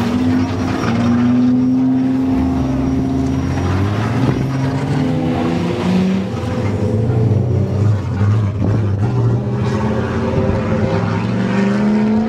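Drift car's engine running hard, its pitch rising and falling over and over as the throttle is worked.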